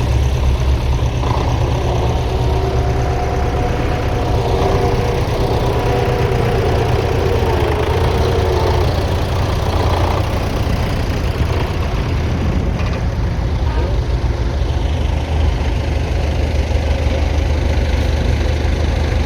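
Tractor engine running steadily under load, a deep constant drone, with a whining tone that comes and goes in the first half.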